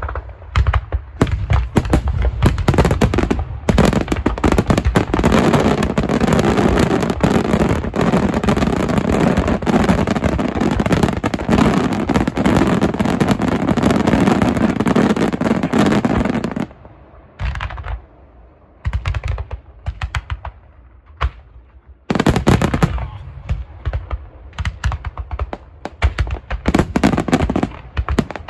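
Fireworks display: a dense, rapid barrage of bangs and crackling pops, then a short lull with a few scattered bangs before another rapid barrage starts up near the end.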